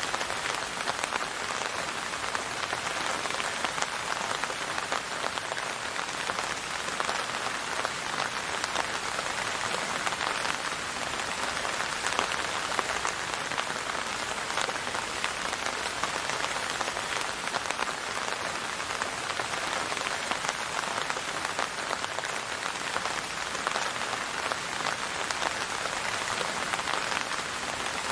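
Steady rain falling and pattering on a surface, a dense even hiss of many drops with no music or voice.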